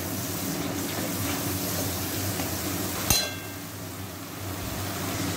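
Onion paste, crushed garlic and spices sizzling in hot oil in a metal kadai, stirred with a metal spatula. One sharp metallic clink rings about three seconds in.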